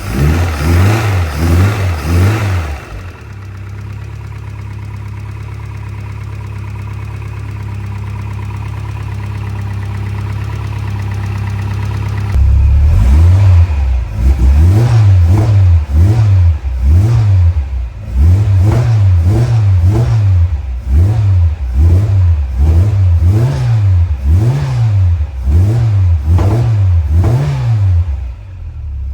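Supercharged four-cylinder engine of a freshly rebuilt Innocenti Mini Cooper 1300 running: revved briefly, settling to a steady idle, then blipped up and down about a dozen times in quick succession before dropping back to idle near the end.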